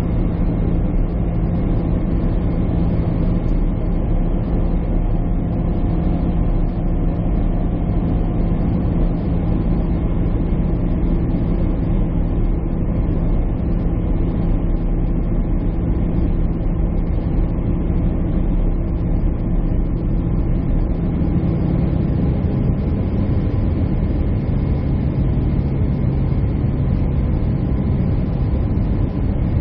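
Steady jet airliner cabin drone, the engines' hum heard from inside the passenger cabin, with a low tone that drops slightly in pitch about three-quarters of the way through.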